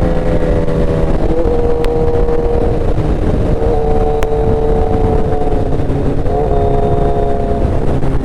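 Motorcycle engine running at a steady cruising speed while riding, its pitch shifting slightly a few times with the throttle, over a dense low rush of noise.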